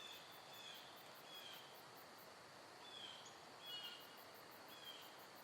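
Near silence: quiet forest ambience with faint, short high chirps repeating roughly once a second.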